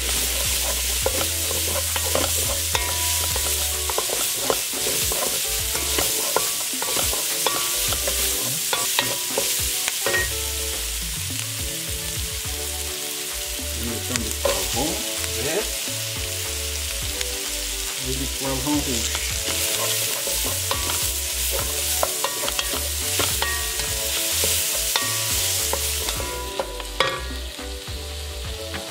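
Onions, spring onions and garlic frying in oil in a wok, sizzling steadily while a wooden spatula stirs and scrapes them around the pan in many small clicks. Near the end there is a louder knock and the sizzle dies down.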